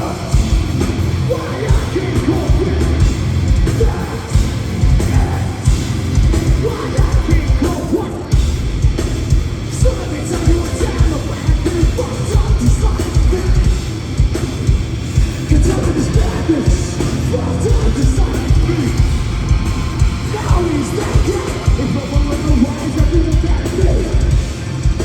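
Heavy metal band playing live at full volume: pounding drums and a dense, bass-heavy band sound, with sung and yelled vocals coming and going.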